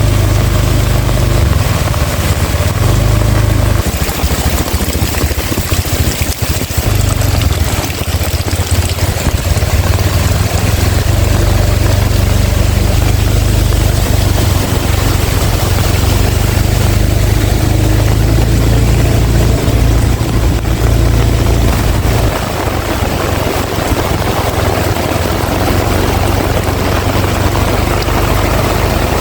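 Heavy rain pouring down, with strong wind gusting over the microphone as a deep rumble that eases briefly a few times.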